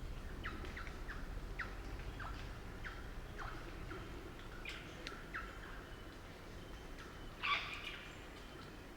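Crimson rosella giving a series of short, sharp falling chirps, with one louder, harsher call about seven and a half seconds in.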